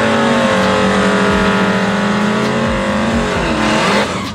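Drag race car engine at high revs on a shakedown pass down the strip, holding a steady high pitch, with a brief dip and recovery near the end like a gear change before the sound cuts off abruptly.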